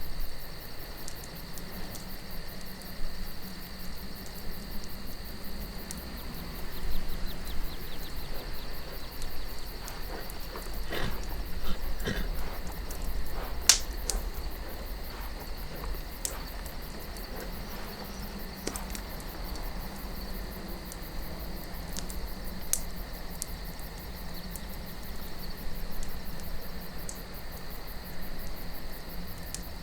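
Campfire wood crackling, with scattered sharp pops and a small flurry of them just before the loudest pop about fourteen seconds in, over a low wind rumble and a steady high chirping of crickets.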